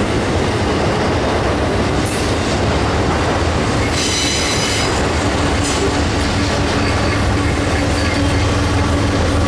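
Railcars of a long freight train rolling past with a steady clatter and rumble, with a brief high-pitched wheel squeal about four seconds in.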